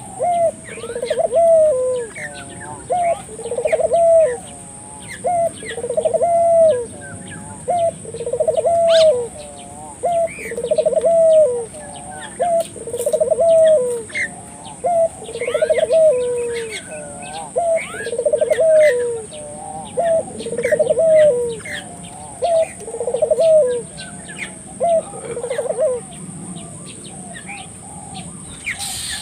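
Puter dove (Barbary dove) cooing vigorously, a long run of repeated coos about one every second and a half that stops near the end, with other small birds chirping faintly in the background.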